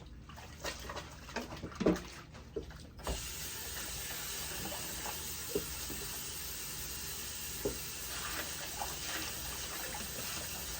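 A few light knocks, then about three seconds in a tap is turned on and water runs steadily as a wig is rinsed under it.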